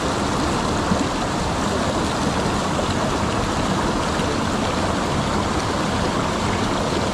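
Fast mountain stream rushing over rocks, a steady, unbroken rush of water.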